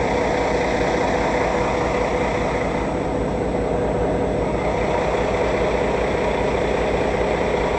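Heavy truck diesel engine idling steadily, with an even low throb under a dense mechanical drone.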